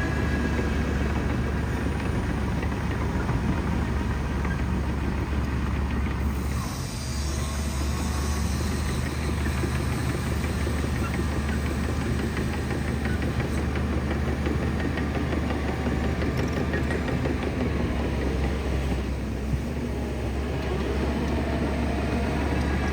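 Shantui bulldozer's diesel engine running steadily under work, with a deep drone that dips briefly about seven seconds in before picking back up.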